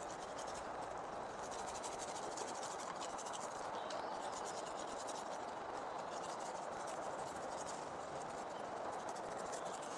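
Insects chirring steadily as a rapid high ticking over a low outdoor hiss.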